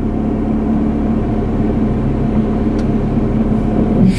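Car engine running, heard from inside the cabin as a steady low hum and rumble, with a short thump near the end.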